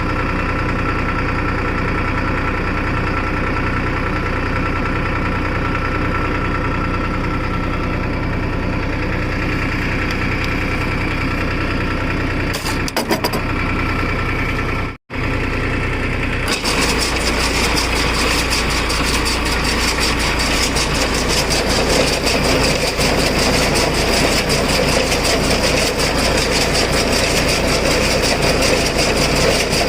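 Diesel engine of a New Holland 3230 NX tractor running steadily. After a brief break about halfway through, it runs louder and rougher, with more mechanical clatter.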